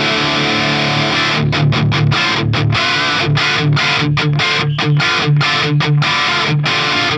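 High-gain distorted electric guitar through a Soldano SLO-100 clone amp, boosted by an Ibanez TS9 Tube Screamer overdrive. It plays a sustained chord, then from about a second and a half in a tight riff of short, stop-start chugs with brief gaps between them, and it cuts off just at the end.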